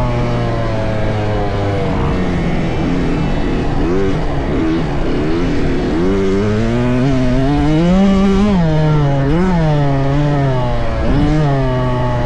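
Small youth dirt bike engines revving and easing off, the pitch rising and falling repeatedly with the throttle. For a few seconds in the middle, more than one bike is heard at once.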